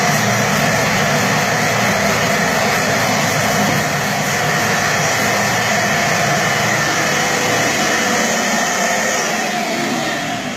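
Titan dust extractor running steadily and loud, drawing air through a Mirka hand sander's extraction holes. Its sound falls away near the end.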